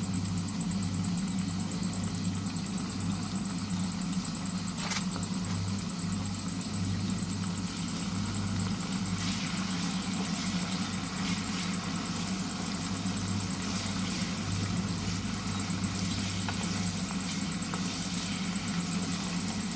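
Onions and peppers frying in a pan, a steady sizzle over a constant low hum, with a faint tick now and then.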